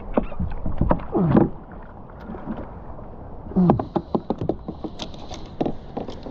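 A hooked fish thrashing on a kayak, knocking and rubbing against the hull in two loud bursts, about a second in and again past halfway, with lighter knocks after.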